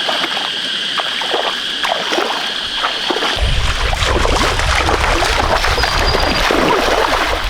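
Water splashing and sloshing in shallow muddy water, growing heavier with a deep rumble about three seconds in. A steady high-pitched whine runs under the first half and stops there.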